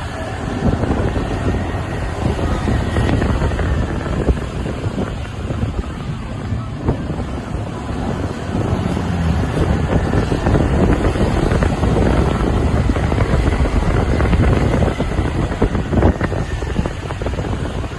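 Wind buffeting the microphone on a moving motorcycle, over the rumble of the motorcycle and surrounding traffic.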